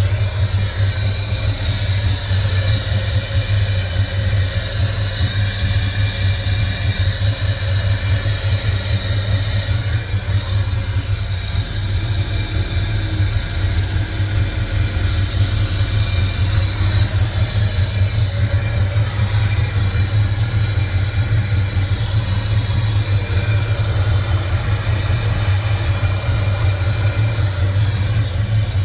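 Engine idling steadily, with a continuous high hiss over its low running note.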